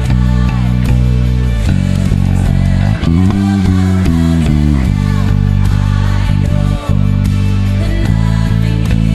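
Electric bass guitar playing long held low notes that change every second or two, along with a full band playing a worship song.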